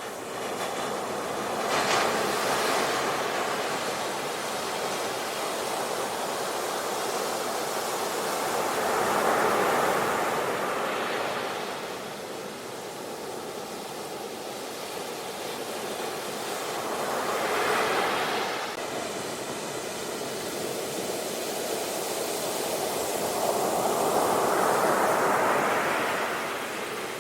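Ocean surf: waves breaking on a beach and washing back, in slow swells about every seven to eight seconds.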